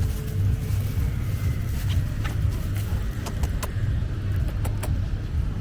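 Low, steady rumble of motor traffic, with a few light clicks and ticks scattered over it.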